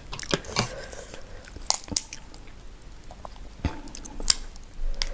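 Close-up mouth sounds of a person eating seafood boil: irregular chewing with a few sharp clicks scattered through, the strongest a little past halfway.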